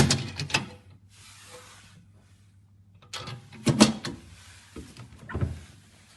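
Clicks and knocks of a refrigerator's door and fittings being handled, with a short hiss about a second in and a dull thud near the end, over a low steady hum.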